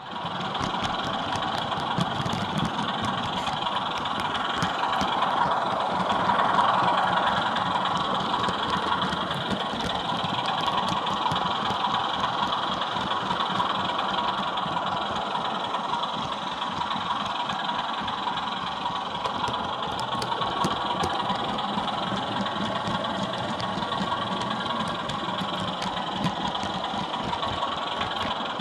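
Diesel engine sound from the DCC sound decoder of an OO gauge Sutton's Locomotive Workshop Class 24 model, playing through its small onboard speaker. It cuts in suddenly, runs steadily, and swells louder about five to seven seconds in before settling back.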